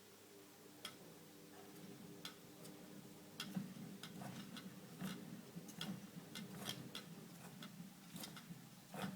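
Faint steady hum of a small electric motor running, with irregular sharp ticks and clicks over it; the hum dies away near the end.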